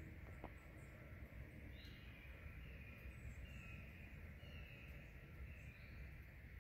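Faint outdoor ambience: a low rumble with a bird calling in short falling notes, repeated several times from about two seconds in.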